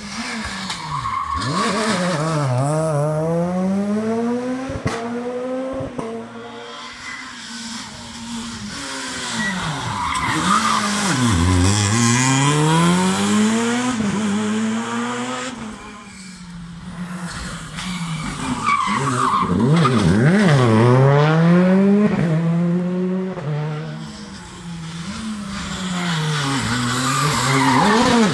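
Rally cars at full throttle on a stage, engines revving up through the gears and dropping sharply on each shift and lift. The sound swells and fades several times as the cars come past.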